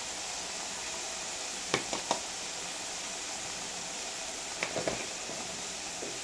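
Mustard, tomato and poppy-seed masala paste sizzling gently in a steel kadai, a steady soft hiss. A few light clicks come about two seconds in and again near five seconds.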